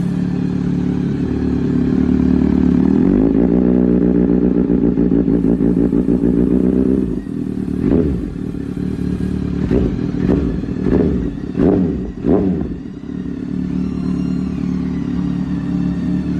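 Kawasaki Ninja ZX-6R's inline-four engine running through an aftermarket performance exhaust. It idles steadily and is held a little higher for a few seconds. It is then blipped sharply about six times in quick succession before settling back to idle.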